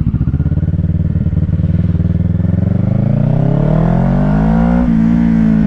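Kawasaki Ninja 650's parallel-twin engine through a Shark SRC-4 full exhaust system, chugging at low revs, then accelerating with its note rising over a couple of seconds. Near the end it dips briefly, a gear change, and holds at higher revs.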